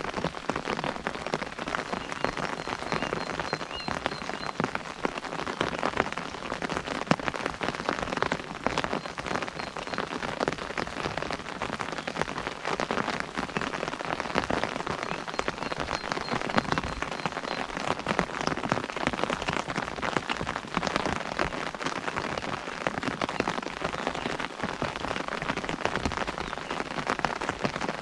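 Steady rain pattering on an umbrella, a dense run of individual drop hits that never lets up.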